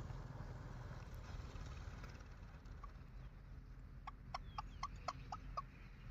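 Faint low hum, then from about four seconds in a quick run of short clucking clicks, several a second.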